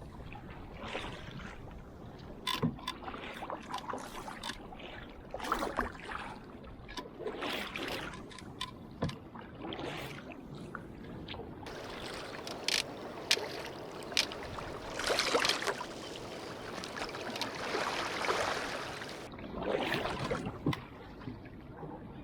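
Canoe being paddled: repeated paddle strokes swishing and splashing in the water, with scattered sharp clicks and knocks.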